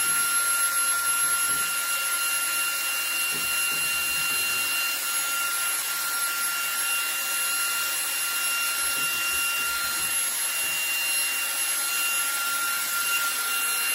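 Cordless vacuum cleaner running at max power with a steady high whine over the rush of air.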